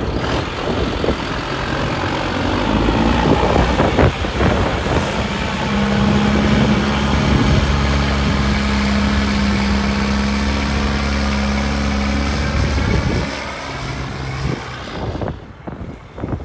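2005 Chevrolet C7500 service truck's engine running. From about six seconds to thirteen it holds a steady, even hum at a higher speed, then drops back and the sound fades near the end.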